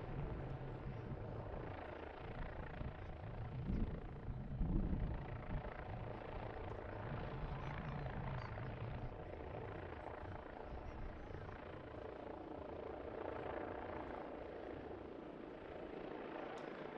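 Aircraft engine noise in flight, a steady sound with no clear pitch, with two short low thumps about four and five seconds in.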